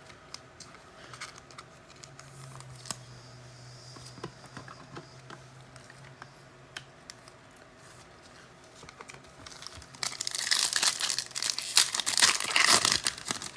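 Faint scattered clicks of cards and packaging being handled. About ten seconds in comes a loud crinkling and tearing of a foil trading-card pack wrapper being opened.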